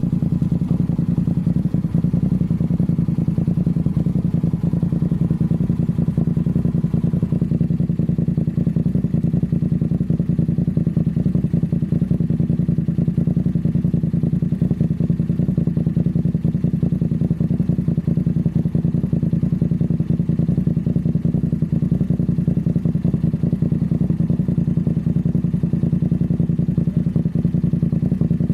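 Steady low drone of a running vehicle, even throughout, with a faint thin whine that stops about seven seconds in.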